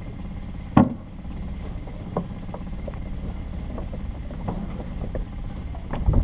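Catamaran's engine idling steadily, with a sharp knock a little under a second in and a dull thump near the end.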